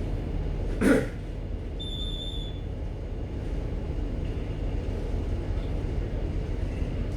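Steady low rumble of a ship's machinery heard on the bridge, with a short sharp noise about a second in and a brief high electronic beep around two seconds in.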